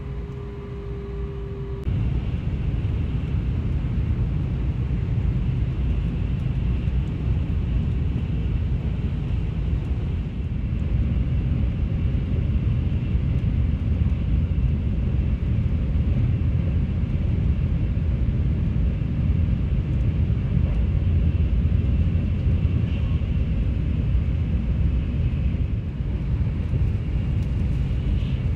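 Shinkansen bullet train running at speed, heard from inside the passenger car: a steady low rumble that grows louder about two seconds in.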